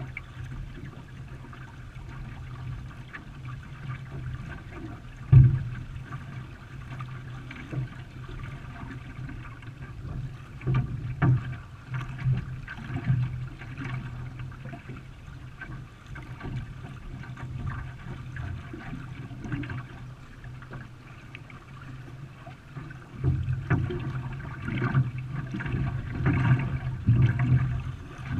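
Racing canoe paddles stroking through the water, with irregular splashing and trickling over a steady low hum, and a sharp knock about five seconds in.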